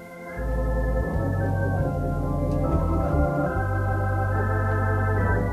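Organ playing sustained chords over a deep bass, the chord shifting several times, then cutting off abruptly at the end.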